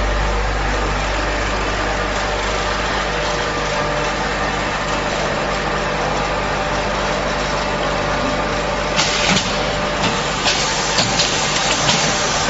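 Automatic single-station packaging machine running with a steady mechanical hum and low drone; about three-quarters of the way through, a series of sharp clicks sets in.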